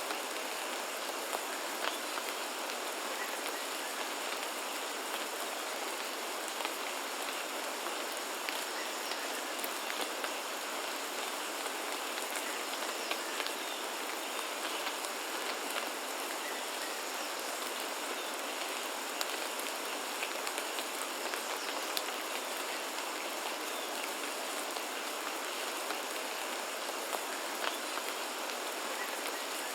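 Steady rainfall, an even hiss with many individual drops ticking sharply.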